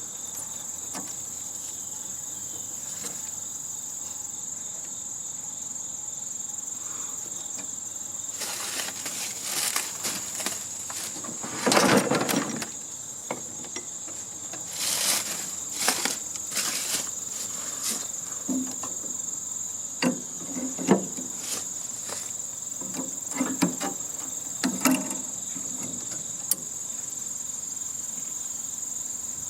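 Steady high-pitched insect chirring, with a series of clanks, knocks and rattles from taking apart a heating and air-conditioning unit by hand. The loudest clatter comes about twelve seconds in.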